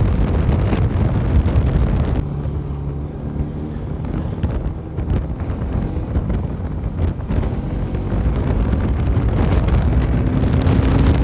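Wind buffeting the microphone on a moving motorcycle, with the Bajaj Pulsar NS200's single-cylinder engine running underneath; the engine's pitch rises slightly near the end.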